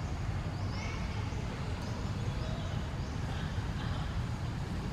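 Steady low rumble of outdoor background noise, with several faint, short, high rising chirps scattered through it.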